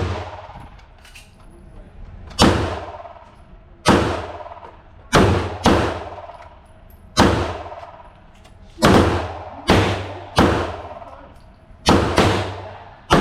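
Firearm shots, about ten, spaced a second or so apart with several quick pairs (double taps). Each crack trails off in a long echo.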